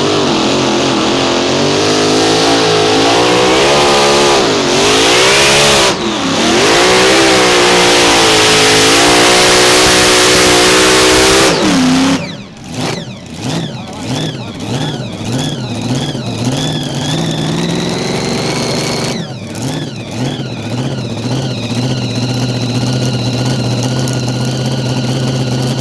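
Mini Rod pulling tractor engine at full throttle under load for about twelve seconds, its pitch wavering. It then cuts back suddenly and runs at lower revs: the pitch swings up and down for several seconds before settling to a steady idle near the end.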